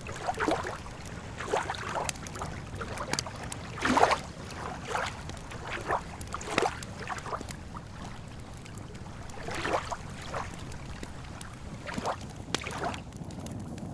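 Small waves lapping irregularly at the lakeshore, with scattered sharp crackles and pops from a campfire, over a steady low rumble.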